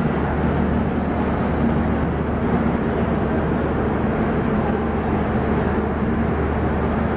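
LHB passenger coaches of a departing express train rolling slowly past along a station platform: a steady rumble of wheels on rails, with a low hum underneath.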